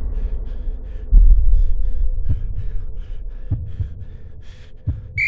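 Dramatic intro soundtrack built on slow, deep heartbeat-like thumps, about one every second, over a low rumble with quick light ticking.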